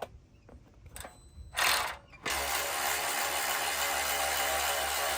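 Cordless impact wrench backing out a large bolt: a short burst of the tool, then a steady run from about two seconds in.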